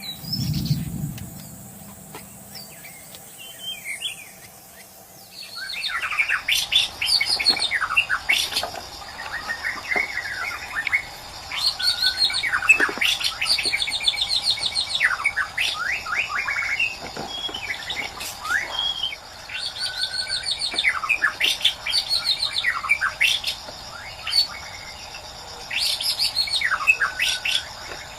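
White-rumped shama singing: phrases of rapid whistles and trills, each run a few seconds long with short pauses between. The song starts about five seconds in, after a quieter stretch with a soft low thump.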